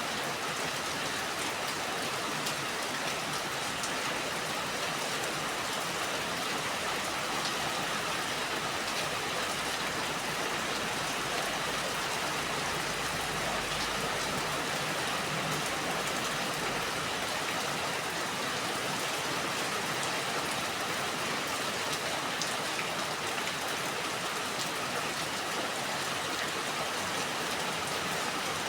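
Steady rain falling: an even hiss with many scattered drop ticks, and a faint low rumble about halfway through.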